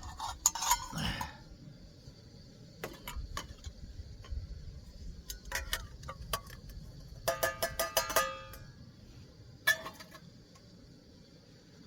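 Metal camp cookware being handled: scattered clinks and taps of a pot and lid, with a cluster of ringing metallic clangs about seven to eight and a half seconds in and another single clang near ten seconds.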